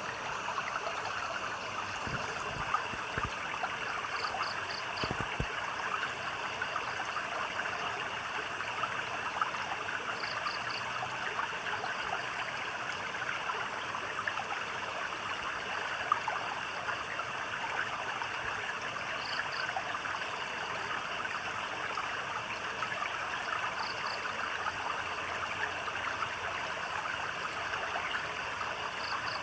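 Stream water flowing and trickling steadily. A small animal's high chirp of three or four quick notes calls a few times over it.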